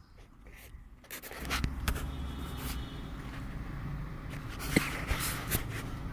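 A vehicle engine starts to rumble about a second in and keeps running, with a few sharp knocks over it.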